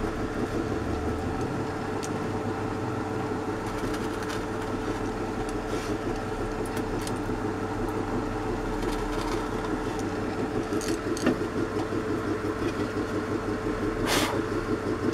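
An electric motor running steadily at one even pitch, with a few light knocks over it.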